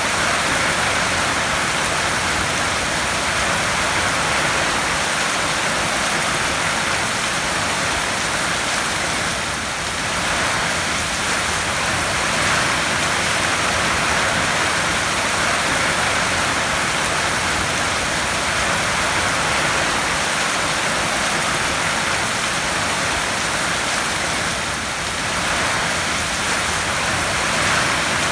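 Heavy rain falling on a tin roof: a dense, steady hiss that eases slightly twice.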